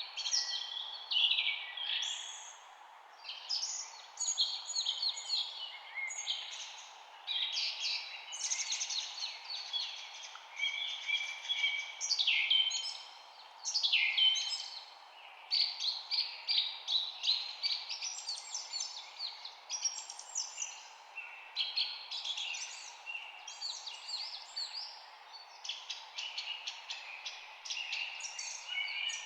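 Several small songbirds chirping and trilling at once, calls overlapping almost without pause, over a steady faint background hiss.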